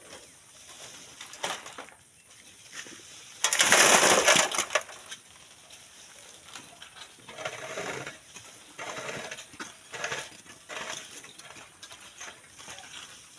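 Sand and stones being shovelled and scraped, a string of short gritty crunches. About three and a half seconds in, a louder rush of sand and gravel lasts about a second.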